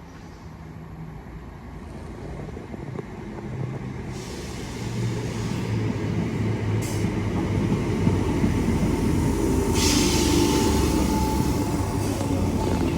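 A British Rail Class 319 electric multiple unit pulling into the station, its running noise growing steadily louder over the first eight seconds as it comes alongside and slows. A brief hiss comes about ten seconds in.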